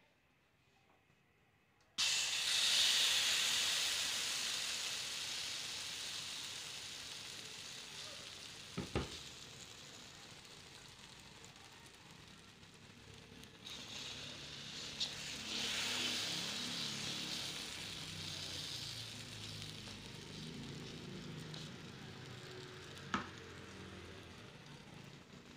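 Ladleful of banana pancake batter sizzling in a hot buttered frying pan. The sizzle starts suddenly about two seconds in as the batter hits the pan, is loudest at first and slowly dies down, then swells again partway through. Two sharp clicks come through it.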